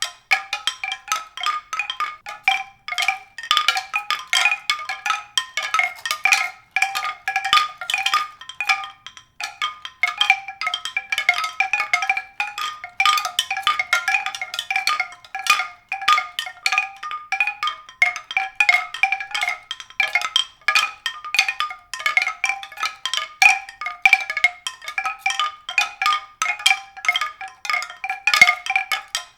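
Mallet percussion: a fast, unbroken stream of struck, briefly ringing notes, several a second.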